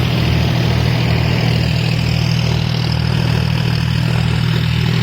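John Deere 5050D tractor's diesel engine running steadily at about 1500 rpm, driving a thresher. It makes an even low hum with no change in pitch and takes the load easily, without strain.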